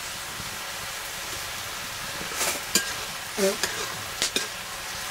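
Mustard greens sizzling in a metal wok while a metal ladle stirs them, with a steady frying hiss. In the second half the ladle scrapes and clacks against the pan several times.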